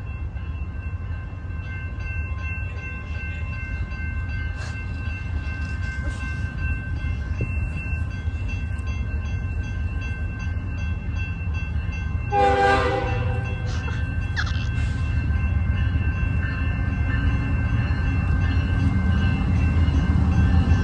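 A train's low rumble, growing louder as it approaches, with one short horn blast about twelve seconds in.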